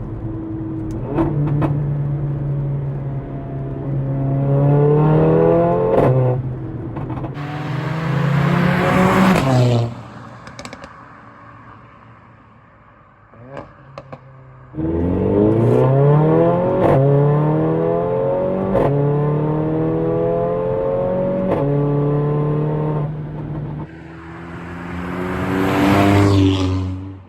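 Mercedes-AMG A45's turbocharged 2.0-litre four-cylinder at full throttle, the engine note climbing steeply through several upshifts with short breaks between gears. Partway through it lifts off to a quieter over-run with a few sharp pops. It then pulls hard again through the gears and rises once more near the end before dropping away.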